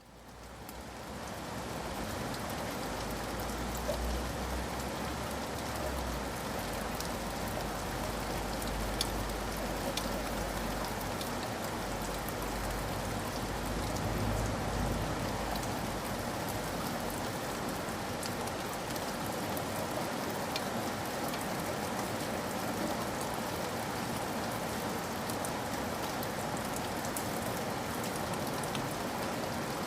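Steady rain with scattered sharp drop ticks, fading in from silence at the start. A low rumble sits under it through roughly the first half.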